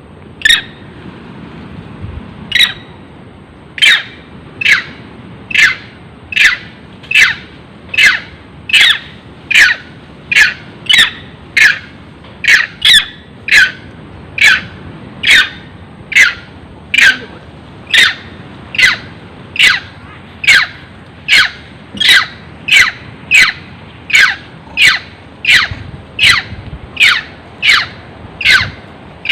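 A monkey screaming over and over: short shrill calls, each falling in pitch, repeated at a steady pace of a little more than one a second.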